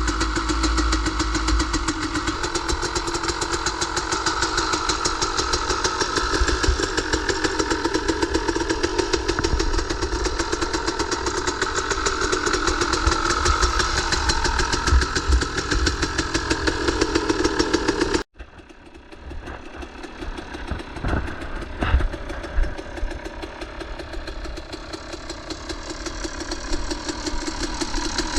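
KTM 300 single-cylinder two-stroke dirt bike engine idling on choke just after a cold start, firing rapidly and unevenly. About eighteen seconds in the sound cuts abruptly to a quieter engine sound with a few knocks.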